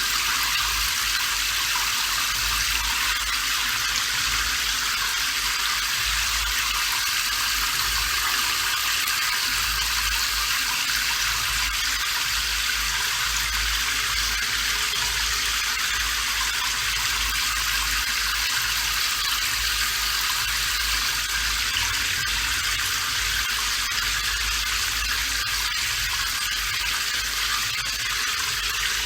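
Steady rain falling: an even, unbroken hiss, mostly high-pitched, with a faint low rumble underneath.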